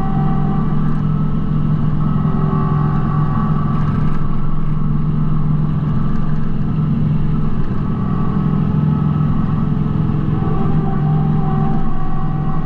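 Kubota B2650 compact tractor's diesel engine running steadily at working speed, with a higher whine that fades in and out.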